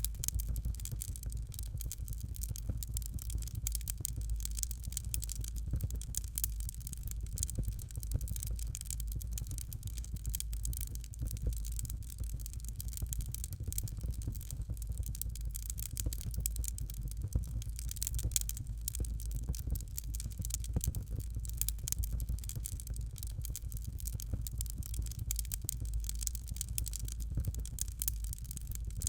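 Fireplace fire crackling steadily, with many small snaps over a constant low rumble.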